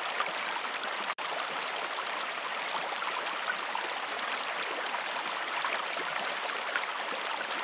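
River water flowing: a steady rushing with small splashes. The sound cuts out for an instant about a second in.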